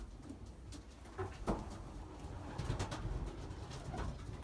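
Racing pigeons cooing low in a loft, with scattered sharp clicks and taps.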